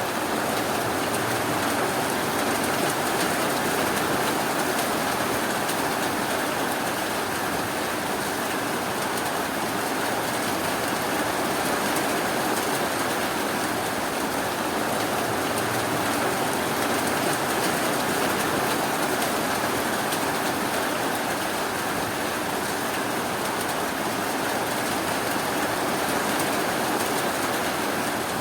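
Steady rainfall, an even hiss with no breaks or sudden sounds.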